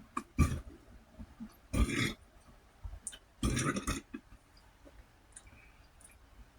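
A man burping a few times in the first four seconds, short loud burps with the last one the longest. The burps come after eating spicy rice with cayenne and garlic quickly, and he says they bring up heat from the peppers.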